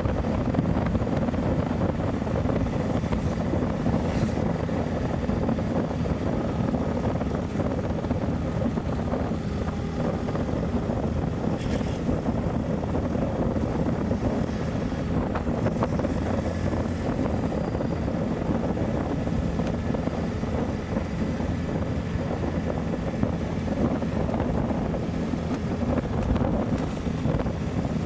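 Motorcycle engine running steadily while riding, under wind rushing over the microphone.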